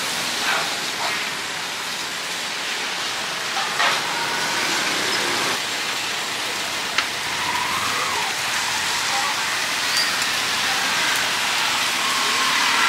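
Steady hiss of rain and traffic on a wet street, with a few light clicks as bamboo skewers of fish knock against the wire grill.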